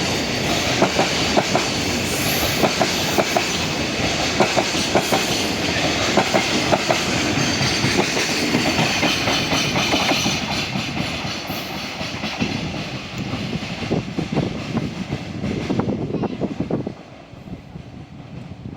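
A freight train of container wagons passing close by, its wheels beating a regular clickety-clack over the rail joints above a steady rumble. The sound thins out and then drops away sharply near the end as the tail of the train goes by.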